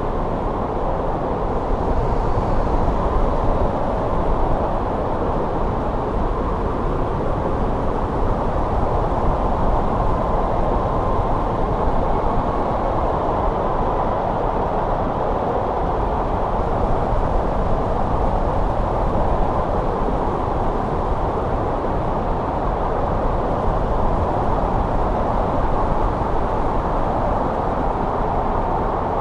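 Winter wind blowing steadily, an even low rush with no distinct gusts or breaks.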